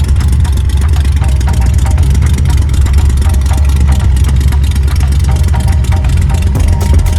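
Ford engine with a big-lift cam idling loud and steady: a deep exhaust rumble made of rapid even pulses.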